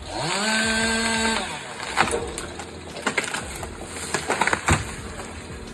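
A machine revs up to a steady whine for about a second and a half, then wood cracks and splinters in several sharp snaps.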